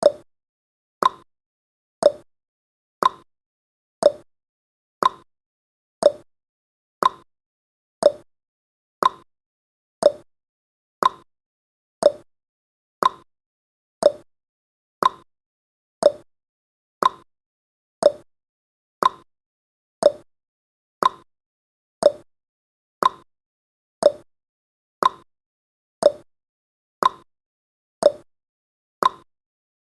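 Countdown timer's clock-tick sound effect: one short, sharp tick every second, alternating between a lower and a higher tick in a steady tick-tock.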